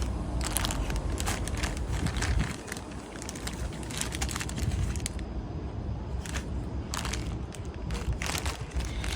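Wind buffeting the microphone as a low rumble, with irregular crackling and rustling clicks.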